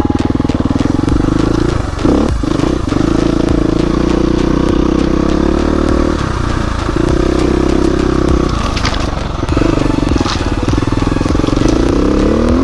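Dirt bike engine running on a trail, the revs repeatedly dropping off and picking up again as the throttle is worked, with a rising rev near the end. A few sharp knocks sound over the engine.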